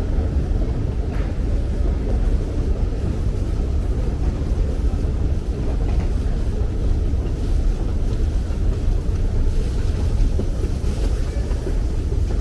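Steady low rumble of London Underground station ambience, with train noise in it.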